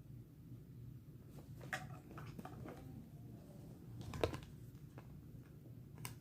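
Quiet handling of figure packaging: scattered light clicks and rustles, with one sharper click or knock about four seconds in, over a low room hum.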